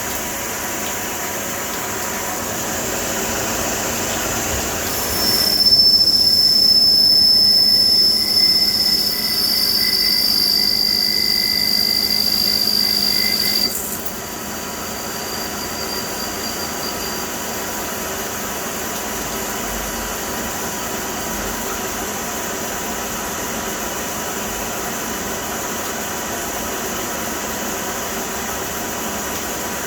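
Victor V-Turn 26 CNC lathe running, its parting tool cutting hard steel. A loud, high-pitched squeal starts about five seconds in, falls slightly in pitch and stops abruptly about halfway through, over the machine's steady running noise.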